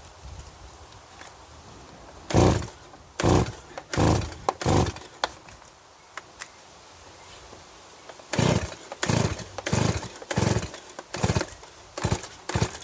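Stihl MS170 chainsaw being pull-started: quick, repeated yanks on the recoil starter cord, four, a pause, then about seven more, the engine turning over with each pull but not catching. It will not start, which the owner later puts down to contact cleaner that got into the carburettor.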